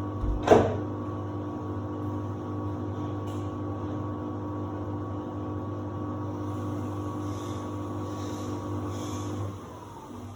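Samsung WD70T4047CE washer-dryer running with a steady mechanical hum and whine, with a sharp knock about half a second in. Near the end the hum cuts off and the whine falls away as the motor winds down.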